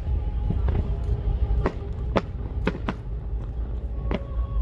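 Fireworks shells bursting, about six sharp bangs spaced irregularly over a few seconds, two of them close together near the middle, over a steady low rumble.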